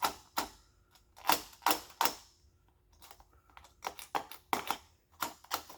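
Irregular light clicks and short metal scrapes, about a dozen of them, from hand work on a multi-layer steel head gasket as its burrs are cleaned off.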